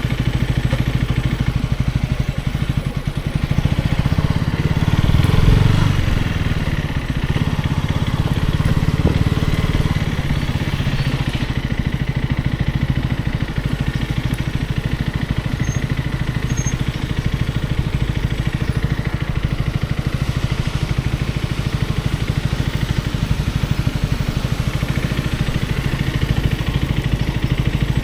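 KTM Duke 250's single-cylinder engine idling steadily, swelling briefly louder about five seconds in.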